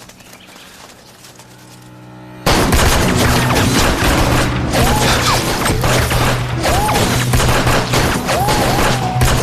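A sudden, dense volley of gunfire breaks out about two and a half seconds in and keeps going as rapid, overlapping shots.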